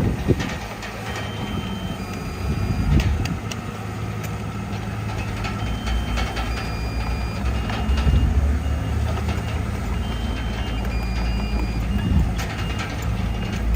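Heavy diesel earthmoving machinery running with a steady low rumble, with scattered clanks and knocks and repeated short high-pitched beeps at a few different pitches.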